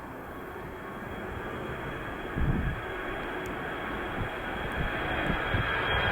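Jet airliner approaching, its engine noise growing steadily louder with a steady high whine. A brief low thump about two and a half seconds in.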